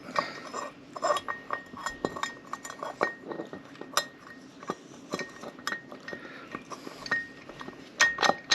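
Irregular light metallic clinks, taps and small knocks of metal engine parts being handled, as the Yamaha TZ350 D's twin-cylinder block is worked down over fresh piston rings.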